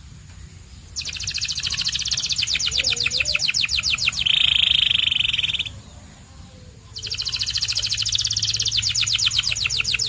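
Canary singing: two song phrases, each a fast rolling trill of rapidly repeated notes that ends in a steady, high held note, with a pause of about a second between them.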